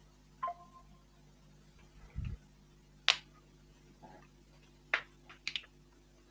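A few scattered sharp clicks over faint room hiss, with a dull low thump a little after two seconds. The loudest click is about three seconds in, and a quick cluster of clicks comes near the end.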